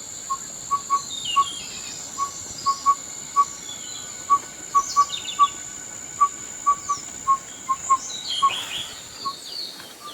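Wild birds calling in forest: one bird repeats a short, low, clipped note about two to three times a second, often in quick pairs, while other birds add higher chirps and down-slurred notes. A steady high whine runs underneath and stops near the end.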